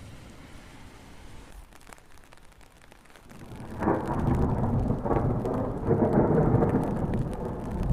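Rain falling, then about three and a half seconds in a long roll of thunder builds and rumbles on loudly.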